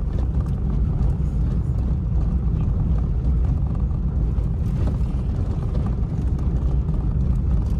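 A car driving on the road: a steady low rumble of engine and tyres.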